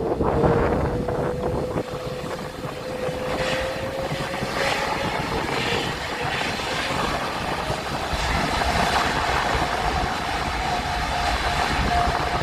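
Rolls-Royce Trent 7000 turbofans of an Airbus A330-900 under power, a steady jet roar with a whine that climbs slowly in pitch, typical of the engines spooling up as the airliner departs.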